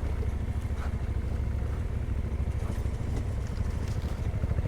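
Yamaha Ténéré 700's parallel-twin engine running at a steady pace while riding, with a low, even pulsing beat.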